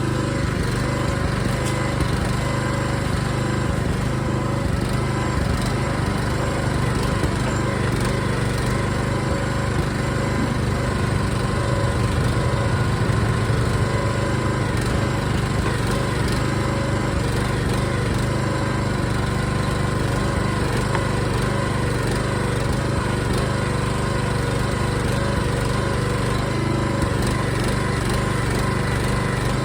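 Small engine of a Harbor Freight backhoe running steadily at an even speed.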